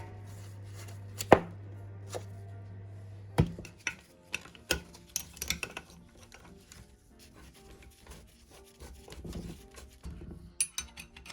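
Irregular clicks and knocks of metal parts and hand tools being handled, the loudest about a second in. A low steady hum underneath stops a little over three seconds in.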